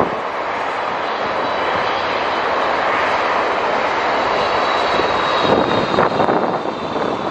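Jet airliner engines with a steady rushing noise and a faint high whine as the plane passes. Gusts of wind buffet the microphone over the last couple of seconds.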